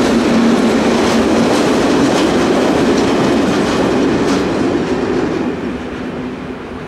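Loaded coal hopper wagons of a freight train rolling past, their wheels clattering over the rail joints with a few sharper clicks. The noise fades away near the end as the last wagons recede.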